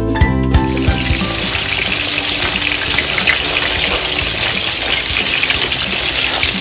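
Goat liver pepper fry sizzling loudly in a wok as it is stirred with a wooden spatula, its gravy cooking down. Background music cuts out under a second in.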